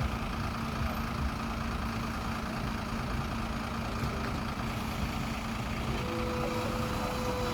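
Engine idling steadily with a low rumble; about six seconds in, a second higher steady tone joins it.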